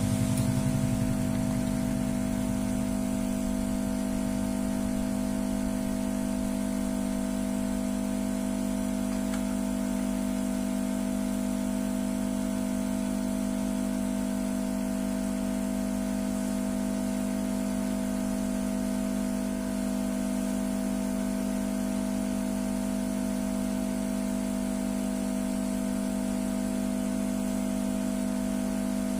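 A steady, unchanging hum made of a few fixed tones, with a faint hiss under it.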